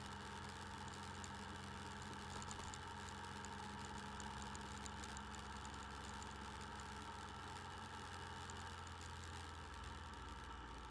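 Motorcycle engine running steadily, picked up by a camera mounted on the bike.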